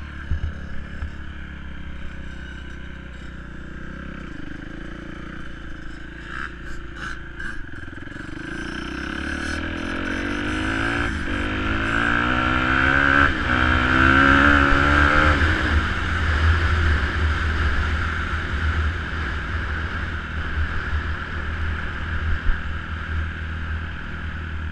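Dirt bike engine running, revving up about a third of the way in with its pitch rising to a peak, then easing off again. A steady low rumble underlies it throughout.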